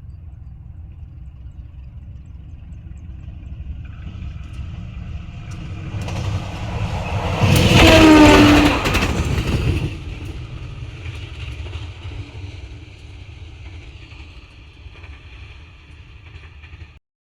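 A train passing by: the rumble builds, is loudest about eight seconds in with a tone that drops in pitch as it goes past, then fades away and cuts off suddenly near the end.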